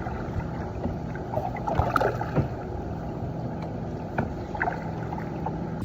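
Water splashing and lapping around a kayak as it is paddled, with a few short knocks and drips scattered through it.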